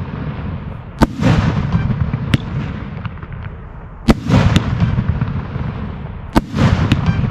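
A 1.3G display fireworks cake firing in sequence. Each shot is a sharp bang, roughly every one to two seconds, followed by a low rumbling tail, with a few smaller pops in between.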